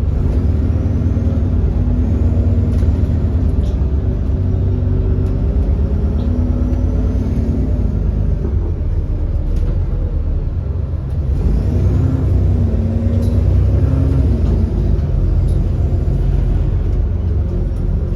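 Alexander Dennis Enviro400 double-decker bus's 6.7-litre Cummins ISB diesel engine running under way, with a heavy low rumble and an engine note that rises and falls several times. The bus has an exhaust leak.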